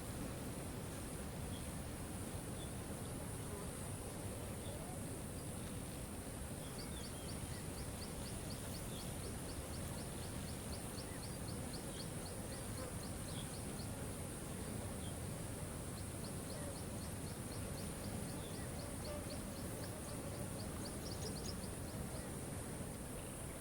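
Steady rushing water of a waterfall, with a high, steady hiss above it. A rapid, high ticking trill runs for several seconds about a third of the way in and again after a short pause.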